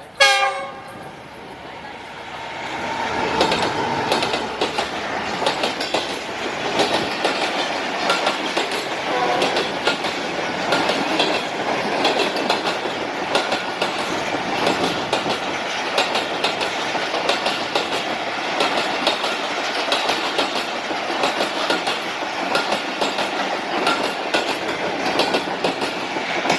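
Passing passenger train: a locomotive horn sounds right at the start and drops in pitch as it goes by, then the coaches run past with steady rumbling and the clickety-clack of wheels over rail joints.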